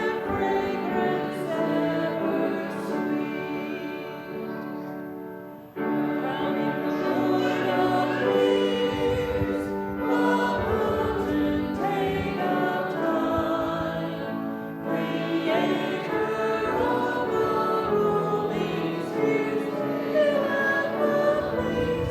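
A church congregation singing a hymn together. The sound fades on a held note about five seconds in, then the singing starts again on the next line or verse.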